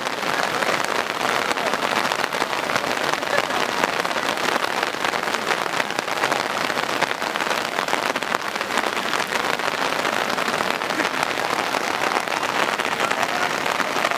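Steady rain pattering, an even dense crackling hiss, with faint voices underneath.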